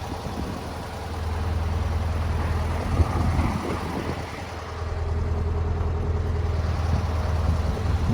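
1964 Volkswagen Beetle's air-cooled 1200cc flat-four engine running with a steady low hum, getting louder twice, about a second in and again midway.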